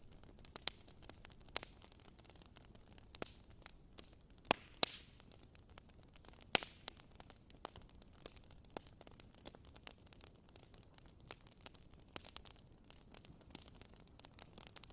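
Campfire crackling: irregular sharp snaps and pops, the loudest about four and a half to five seconds in and again near six and a half seconds, over a faint steady high trill of night insects.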